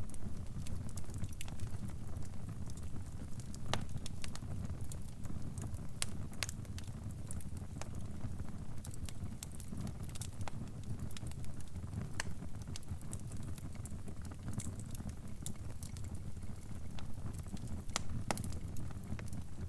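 Crackling fire: a steady low rumble of burning with irregular sharp pops and snaps.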